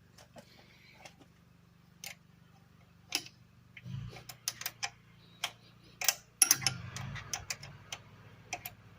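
Irregular sharp clicks and clinks of hand tools against metal engine parts, with a louder cluster about two-thirds of the way through, over a faint steady low hum.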